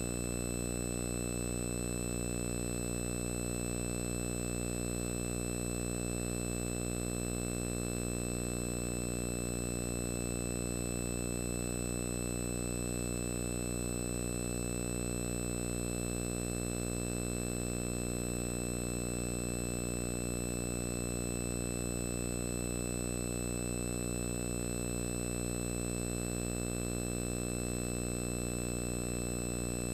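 A steady buzzing hum with many overtones that does not change at all.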